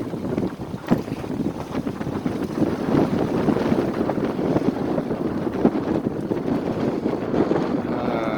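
Wind buffeting the microphone over the rush of water along the hull of a small sailboat under sail in gusty wind, with a light knock about a second in.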